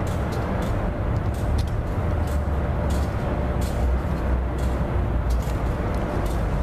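CSX intermodal freight train of container flatcars rolling across a steel trestle: a steady low rumble with scattered sharp clicks.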